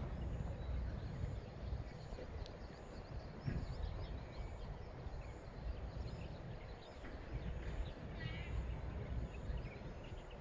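Wind buffeting the microphone outdoors as a steady low rumble, with faint high chirps now and then and a single click a couple of seconds in.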